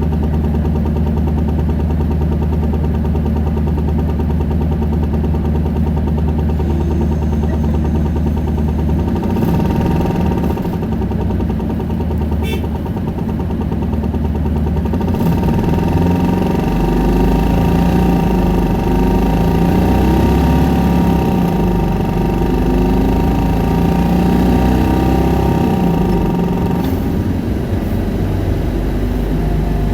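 Isuzu Erga city bus's diesel engine idling steadily, then the bus pulls away and accelerates with the engine revving high and a steady whine over it, easing off near the end.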